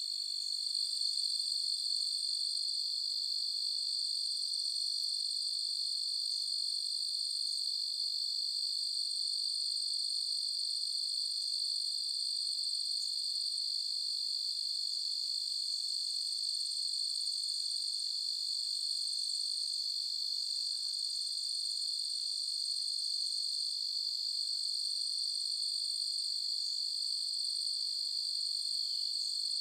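Steady, unbroken chorus of crickets chirping on a summer night, a continuous high trill with no pauses.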